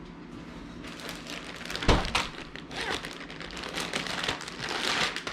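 Egg roll wrapper packaging crinkling and rustling as it is handled, with one sharp knock just before two seconds in.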